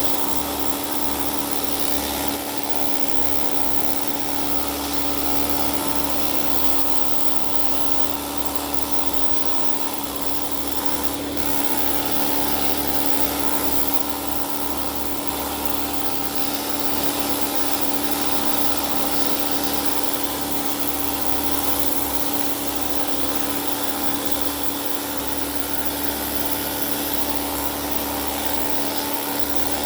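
Pneumatic needle scaler running steadily against metal, chipping rust off.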